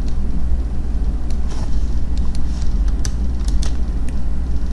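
A steady low hum with a handful of short, sharp clicks scattered through it, typical of mouse clicks at a computer.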